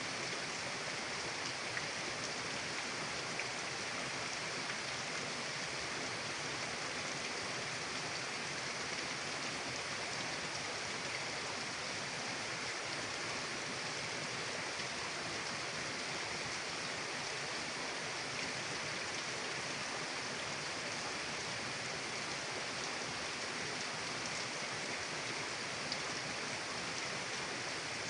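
Mountain river water rushing in a steady, even flow.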